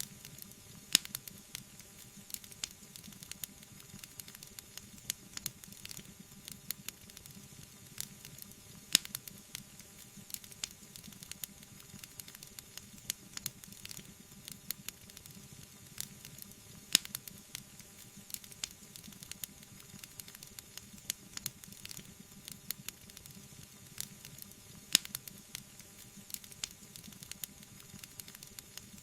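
Wood fire crackling: frequent sharp snaps and pops over a low steady hiss, with a louder pop about every eight seconds.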